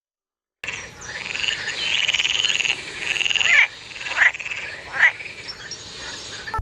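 Animal calls: a high, rapidly pulsing trill in two long phrases, then three short sweeping notes. They start suddenly about half a second in.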